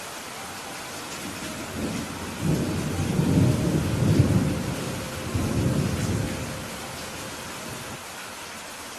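Steady rain hissing, with a roll of thunder that swells from about two seconds in, rumbles for several seconds and fades away.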